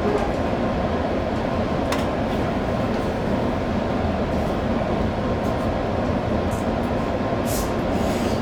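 JR 205 series electric train running, heard from the driver's cab: a steady rumble of wheels on rail. A sharp click about two seconds in and a short hiss near the end.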